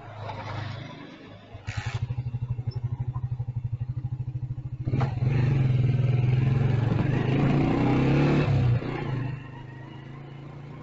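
Motorcycle engine running with a steady pulsing beat. About five seconds in a sharp click comes and the engine gets louder, its pitch rising as the bike accelerates. Near the end it eases off to a quieter steady run.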